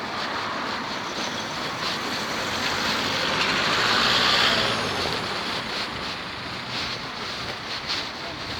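Road traffic, with one vehicle passing close: its noise builds to a peak about four seconds in and then fades.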